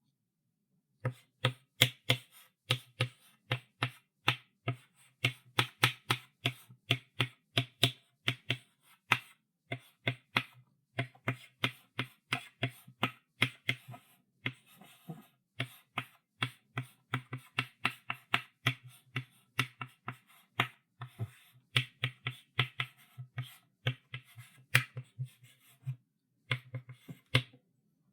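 Chalk writing on a blackboard: quick taps and short strokes of the chalk, about three a second, with a few short pauses. It starts about a second in.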